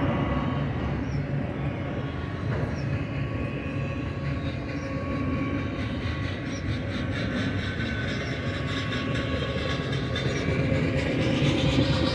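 Double-stack intermodal well cars of a freight train rolling past on steel rails: a steady rumble of wheels on track with faint ringing tones, and a light clicking that grows louder near the end.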